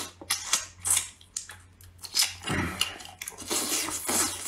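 Close-miked chewing of a spicy braised duck tongue: wet mouth sounds and smacks in irregular short bursts.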